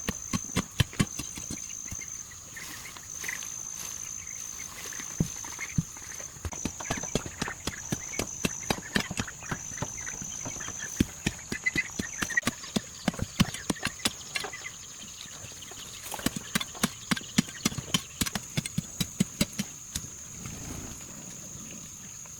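Irregular runs of sharp knocks and taps, several a second, with a quieter stretch near the end, over a steady high-pitched whine.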